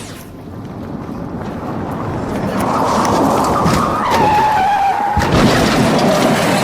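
A car running hard with tyres skidding, growing louder over the first few seconds, with a squeal that drops in pitch about four seconds in; it cuts off abruptly at the end.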